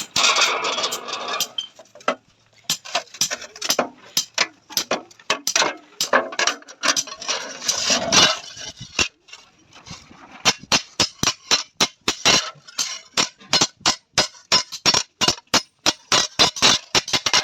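Hand hammer striking a metal tawa being forged: a run of sharp metallic blows, irregular at first, then a steady rhythm of about three strikes a second from about ten seconds in.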